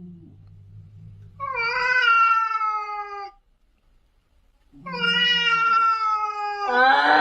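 Cat giving long, drawn-out meows: two of about two seconds each with a pause between, and a third starting near the end, each sagging slightly in pitch.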